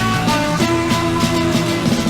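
Punk rock band playing an instrumental passage: distorted electric guitars with bass and drums keeping a steady beat.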